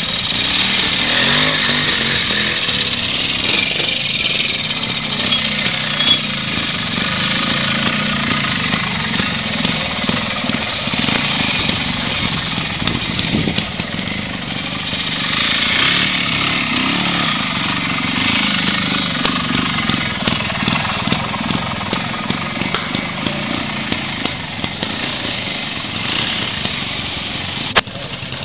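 Vintage trials motorcycle engines running, their revs rising and falling over the seconds, with a sharp click near the end.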